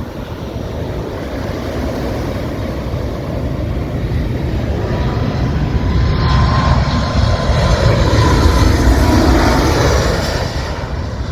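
A landing plane passing low overhead: its engine noise with a thin whine swells over several seconds, peaks about eight to nine seconds in, then begins to fade. Wind buffets the microphone throughout.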